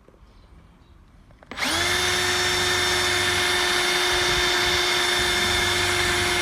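Electric drill starting up about a second and a half in and running at a steady speed with a steady whine, drilling a 3 mm pilot hole through aluminium.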